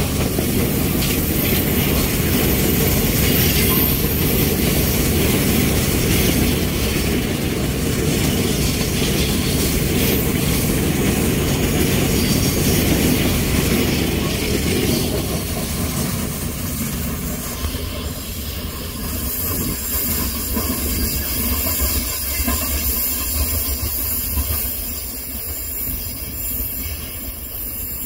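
Freight train of bogie hopper wagons rolling past close by: a loud, steady noise of wheels running on the rails. About halfway through it grows quieter as the last wagons move away.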